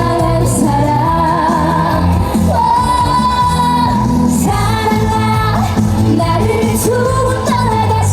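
A woman singing live into a microphone over amplified pop backing music, holding long notes with vibrato.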